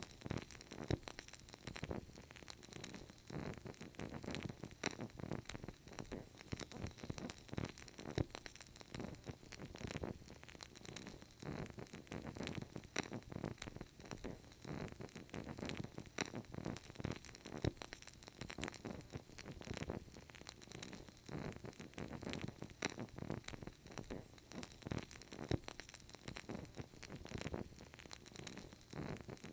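Burning candle, its flame crackling steadily with many small, irregular clicks over a faint hiss.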